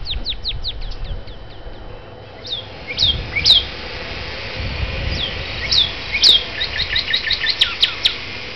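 Northern cardinal singing: a series of short, sharp down-slurred whistled notes, in a fast run at the start, single notes in the middle, and another quick run near the end.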